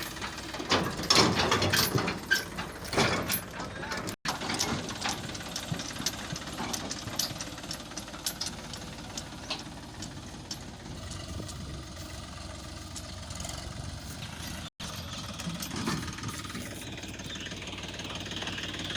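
Case 770 FX Plus backhoe loader's diesel engine running, with a cluster of clanks and knocks in the first few seconds, then steadier. The sound drops out completely twice, briefly, where the recording is cut.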